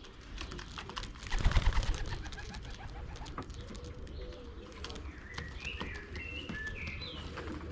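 Racing pigeons at a loft cooing, with a flurry of wingbeats and clattering about a second and a half in and short high chirping calls in the second half.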